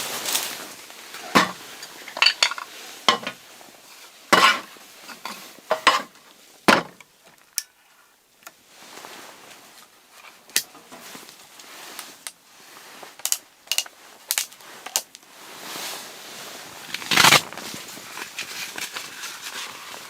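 Objects being handled, giving an irregular series of sharp knocks and clinks with quieter rustling between them. The loudest knock comes near the end, and there is a brief lull about halfway through.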